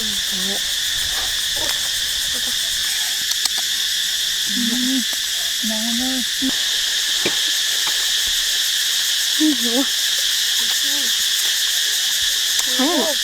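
Steady insect chorus shrilling in several pitch layers, with short, low, wavering calls breaking in now and then, a few around the middle and a cluster near the end.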